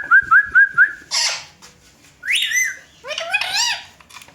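Indian ringneck parrots calling: a quick run of about five whistled notes, then a harsh screech about a second in and two drawn-out calls that rise and fall in pitch.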